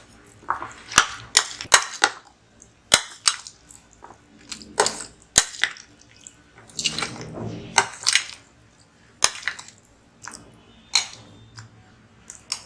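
A spoon clinking and tapping irregularly against a mixing bowl, with softer scraping between the knocks, as nuts and dried fruit are stirred into bread-cake batter.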